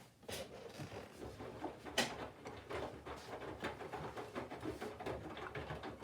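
Candy GVF4 137 LWHC/2 front-loading washing machine tumbling its load in the cold wash phase: wet laundry and water sloshing and slapping inside the turning drum as a steady run of irregular soft knocks, with a sharper knock about two seconds in.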